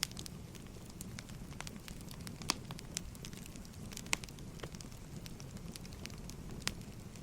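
Firewood burning, crackling with irregular sharp pops over a low, steady rumble of flames.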